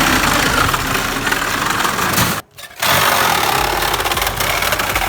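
Power tool running with a dense, steady noise, stopping for a moment about two and a half seconds in and then starting again.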